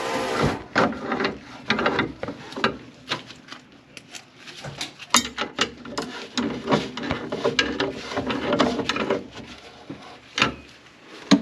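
Irregular clicks, knocks and clatter of objects being handled and set down. A steady running sound cuts off just after the start.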